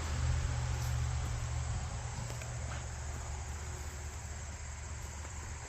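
Steady chirring of crickets and other insects, with a low engine hum from a passing vehicle slowly fading.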